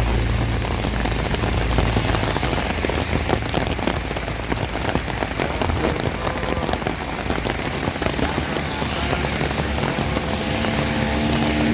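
Heavy rain falling, an even hiss with dense pattering of drops on surfaces. A low rumble dies away over the first two seconds, and near the end a motor's steady hum comes in.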